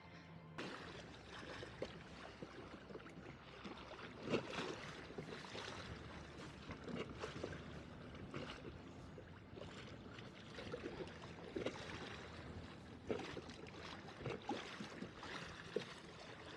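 Water lapping and splashing against a kayak hull, with small irregular splashes and knocks.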